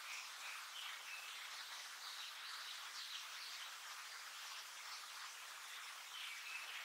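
Blue-and-white flycatcher fledgling giving short, high, faint calls: a few near the start, more around the middle and again near the end, over a steady hiss of background noise.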